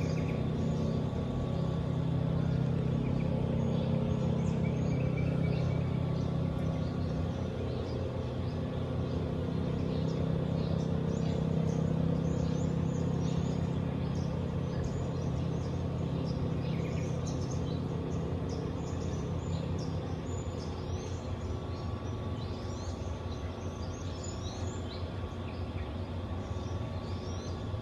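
Small birds chirping and calling in short, scattered phrases over a steady low rumble, like distant traffic, which is the loudest sound throughout.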